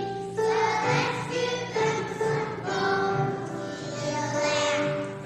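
Group of young children singing a song together, with musical accompaniment.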